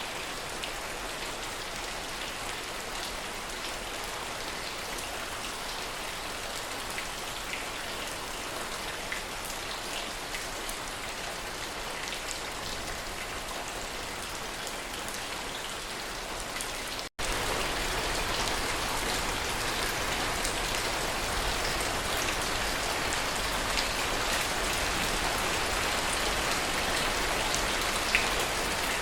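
Steady rain falling, with individual drops ticking sharply through the hiss. About 17 seconds in the sound cuts out for an instant and comes back louder.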